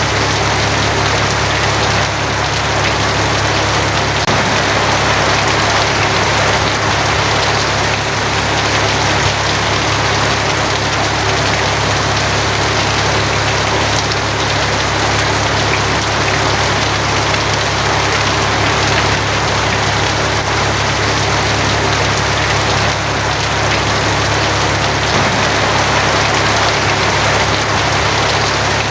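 Rain falling steadily on a tin roof, an even patter with no let-up, and a steady low hum underneath.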